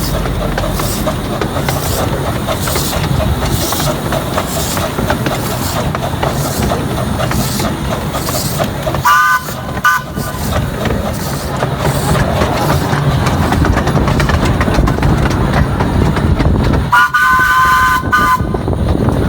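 Train running with a rhythmic clatter of wheels over the rails; it sounds a chord-like warning note twice, briefly near the middle and for about a second and a half near the end.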